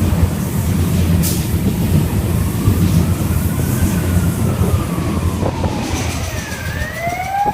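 Waratah electric train passing through the station: a steady low rumble of wheels on the rails, with a faint tone falling in pitch through the middle. Near the end the rumble eases and a rising electric motor whine begins.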